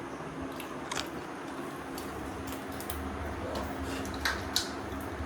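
A few light clicks and taps over a steady low hum, the clearest about a second in and two close together near the end.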